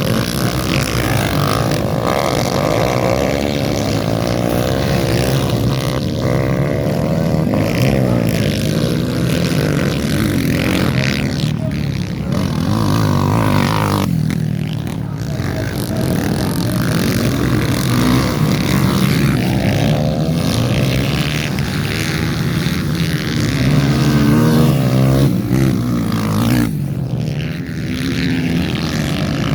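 Dirt bike engines running and revving, their pitch rising and falling again and again as the bikes race.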